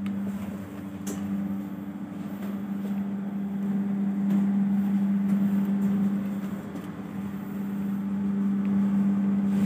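Steady mechanical hum of a passenger train carriage, a low drone with a second, higher tone, over a faint rushing noise that swells and eases slightly.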